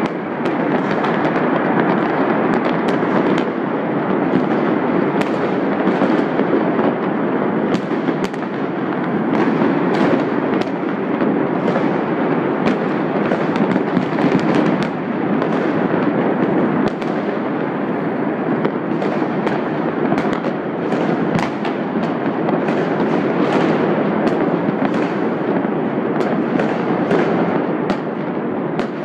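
Fireworks going off all over the city: many rapid, overlapping pops and bangs over a continuous crackle that never lets up.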